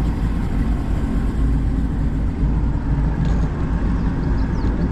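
Bass boat's motor running steadily as the boat moves along, a continuous low rumble.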